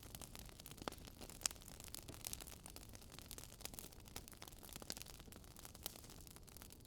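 Wood fire crackling faintly, with irregular sharp pops and snaps over a low, steady hiss.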